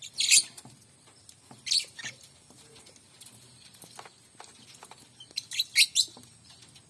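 Songbird giving short, loud bursts of high chirps: one right at the start, another after about a second and a half, and a quick cluster near the end, with faint clicks between.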